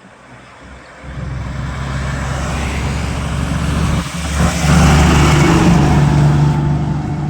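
Heavy truck's engine running under load with a low, steady drone. It starts about a second in, grows louder to a peak past the middle, then eases slightly.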